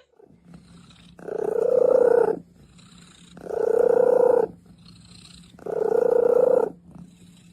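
An animal making three long, steady calls, each about a second long and about a second apart.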